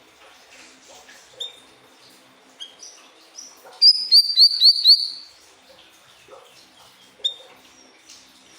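Siri-siri bird singing: scattered short, high chirps, then about halfway through a loud run of five quick downslurred notes, followed by a couple more single chirps.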